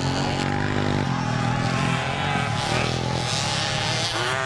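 Motocross bikes racing around a dirt track, their engines revving up and down several times as the riders work through the laps.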